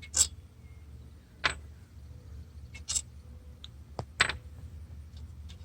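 Sharp metal clinks and knocks of hand tools and head bolts, five or so spaced a second or more apart, as the last small bolts are worked out of a 6.7 Powerstroke cylinder head. A low steady hum runs underneath.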